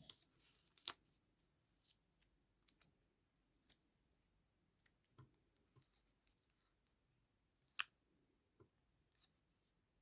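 Faint, scattered clicks and light paper-handling sounds from collage work at a desk, irregular, with two sharper clicks about a second in and near eight seconds.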